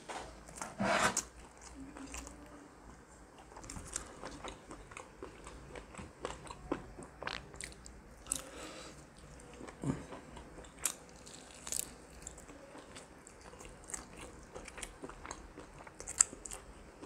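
Close-miked biting and chewing of a roasted chicken leg, with scattered crunches; the loudest bite comes about a second in.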